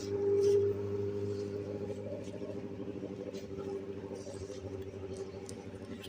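Vehicle engine running with a steady low hum, swelling slightly about half a second in.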